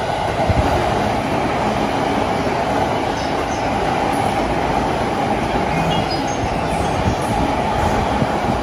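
Electric commuter train passing close by at speed: a steady, loud rush of wheels and carriages on the rails.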